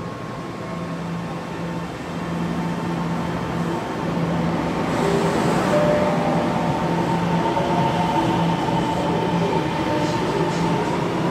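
High-speed electric train passing at speed: a steady rush of rolling and air noise over a low hum, growing louder until about halfway through and then staying loud.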